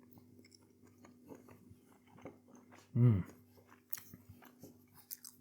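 A person chewing a bite of a breaded meat-free southern fried fillet, with small wet mouth clicks and crunches, and a short voiced "mm" with falling pitch about three seconds in. A faint steady hum runs underneath.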